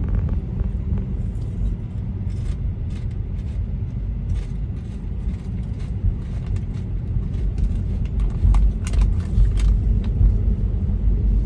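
Road noise heard inside a moving car's cabin: a steady low rumble from the tyres and drivetrain, with scattered faint clicks.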